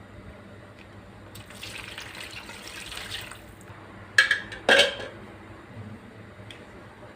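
Water running from a tap into a sink for about two seconds, then two sharp clatters about half a second apart.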